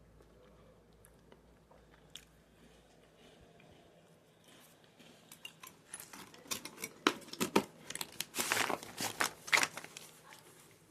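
Crisp crunching and crackling from Dukes Nibbles masala kaju biscuits and their packet. It is sparse and faint at first, then turns into a dense run of sharp crunches in the second half.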